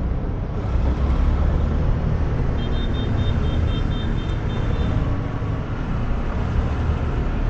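Wind buffeting and road noise from riding a motorcycle slowly in traffic, picked up by a lavalier microphone worn at the throat under a balaclava with the half-face helmet's visor open: a steady heavy low rumble. Midway, a high beeping repeats about four times a second for roughly two seconds.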